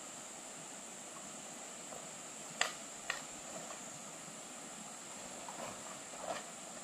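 Steady high-pitched chirring of insects, with two sharp clicks or knocks about two and a half and three seconds in and a couple of fainter ones near the end.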